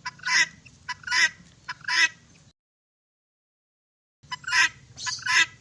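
Duck quacking: three harsh quacks about a second apart, a short break, then two more.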